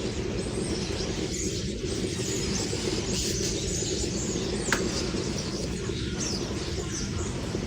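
Birds chirping over a steady low background noise, with one sharp click a little past halfway.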